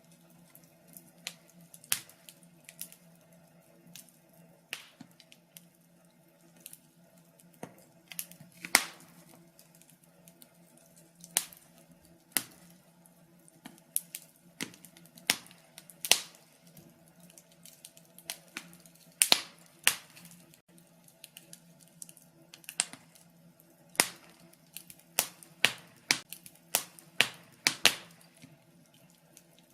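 Wood fire crackling in a fireplace: irregular sharp pops and snaps, often several a second and of uneven loudness, a few much louder than the rest. Under them runs a faint steady low hum.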